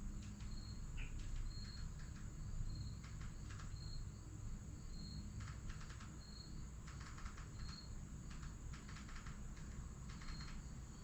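A cricket chirping steadily, one short high chirp a little more than once a second, with scattered bursts of light clicking and rattling over a faint low rumble.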